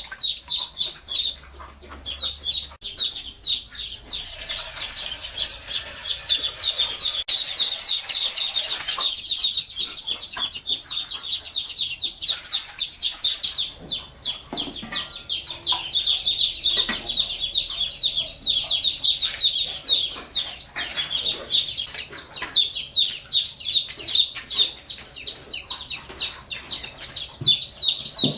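Chickens: a continuous fast run of high-pitched peeping, several peeps a second, with a brief rustling, flapping-like noise from about four to nine seconds in.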